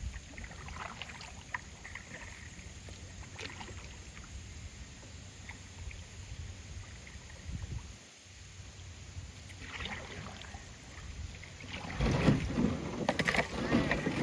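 Kayak being paddled through shallow water: scattered paddle splashes and drips over a low rumble of wind on the microphone. The splashing grows louder and busier about twelve seconds in.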